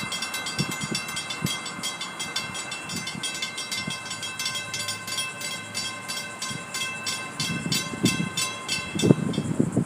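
Railroad grade-crossing warning bell ringing in a fast, even rhythm of strikes as the gates come down for an approaching train, stopping about nine seconds in.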